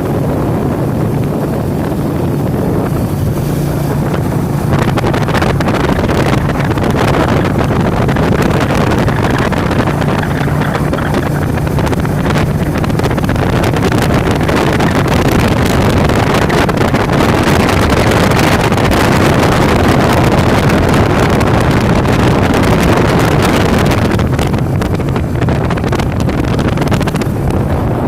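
Steady low rumble, like a moving vehicle, with wind noise on the microphone, swelling slightly in the middle.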